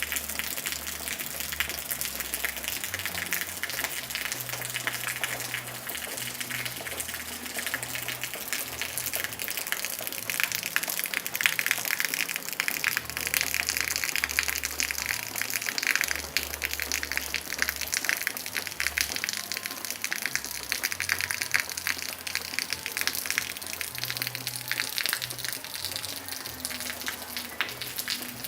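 Water rushing and splashing steadily.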